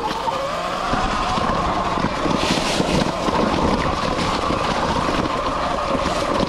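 Sur Ron X electric dirt bike's motor whining steadily, its pitch wavering slightly with the throttle, over rattling and knocking from the bike jolting along a rough trail and wind on the microphone.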